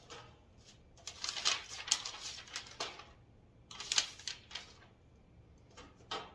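Rustling and scraping as the rack's parts and packaging are handled, in two bursts, then a few sharp clicks near the end.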